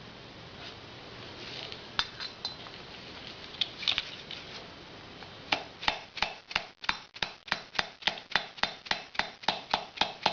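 Soft hammer tapping lightly and steadily on a gudgeon pin used as a drift, about four blows a second, driving a valve seal down until it seats. Before the tapping, a few scattered clicks of metal parts being handled.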